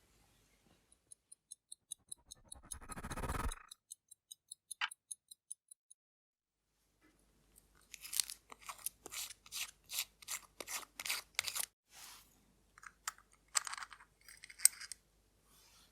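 Small hand tools working on a watch during disassembly. A run of faint, evenly spaced high ticks comes first, then from about halfway a quick series of sharp scraping and crunching strokes against the watch.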